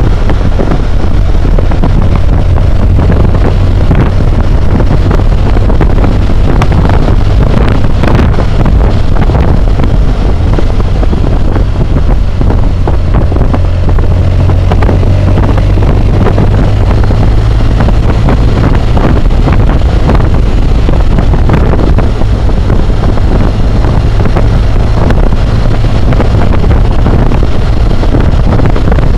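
Steady wind roar buffeting a helmet-mounted camera's microphone on a moving BMW motorcycle, with the bike's engine running steadily underneath; the roar is loudest in the low end and does not let up.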